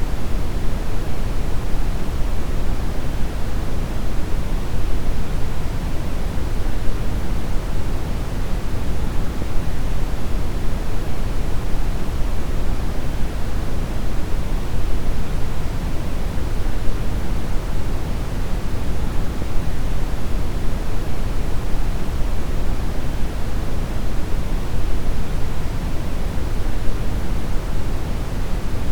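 Steady deep brown noise: an even, unchanging hiss and rumble with most of its energy in the low end.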